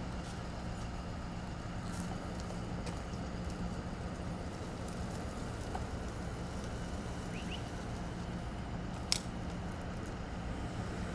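A stopped passenger train idles with a steady low hum. A single sharp click comes about nine seconds in.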